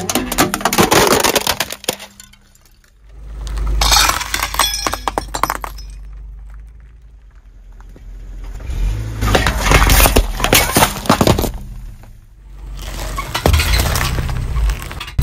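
A car tyre rolls over and crushes food: four bouts of crunching, cracking and snapping, over the low rumble of the car from about three seconds in.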